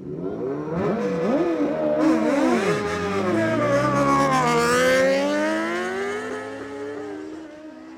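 Superbike engines revving hard at the start line, their pitch jumping up and down, then launching and accelerating away down the drag strip. The engine notes climb steadily and the sound fades as the bikes pull away.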